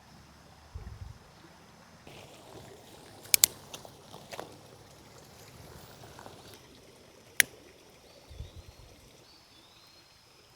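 Creek flowing steadily, with a few sharp clicks (two close together, then one more) and a couple of short low thumps.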